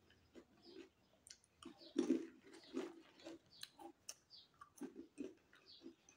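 Chewing crunchy nimki, a fried flour snack: irregular crisp crunches and mouth clicks, a few a second, the loudest about two seconds in.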